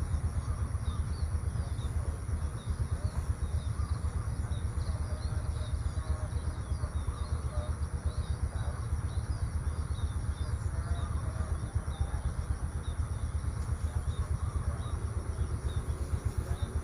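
Outdoor rural ambience: many small bird chirps scattered throughout over a steady low rumble, with a steady high-pitched tone above.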